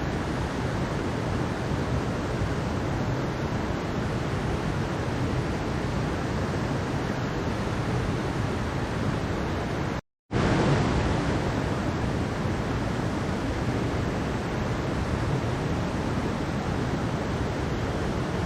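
Mountain stream water rushing steadily over rocks, an even hiss and roar. About ten seconds in it cuts out completely for a split second, then resumes at once.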